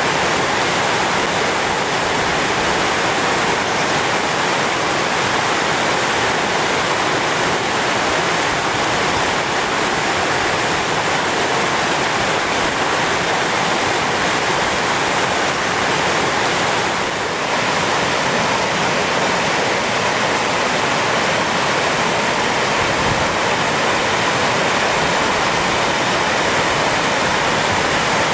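The Orkhon Waterfall's water falling: a loud, steady rushing with no break.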